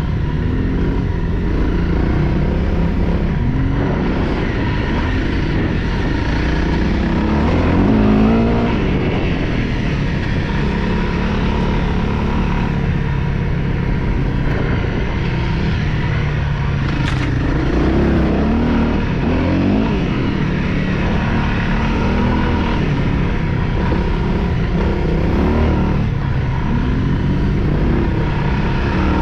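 Dirt bike engine running under way. Its pitch rises and falls every few seconds as the throttle is opened and closed, with harder revs about 8 and 18 seconds in.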